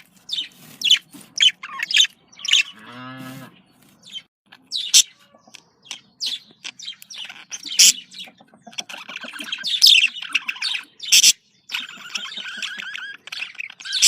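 Budgerigars chirping in many short high calls, breaking into stretches of fast chattering warble twice in the second half.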